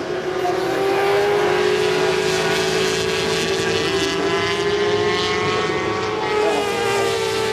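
Several 400 cc supersport racing motorcycle engines running at high revs, a steady mix of engine notes that drift slightly up and down in pitch.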